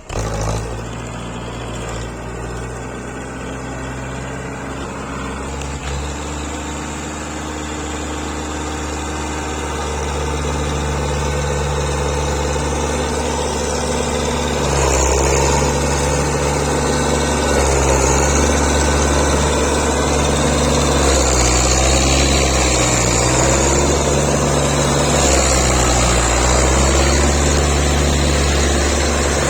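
Belarus tractor's diesel engine running hard while pulling. It grows louder about ten seconds in, and its pitch dips and recovers several times in the second half as the load changes.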